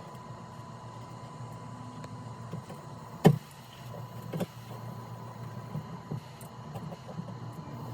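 A steady low hum with one sharp knock about three seconds in and a lighter knock a second later, among a few faint clicks.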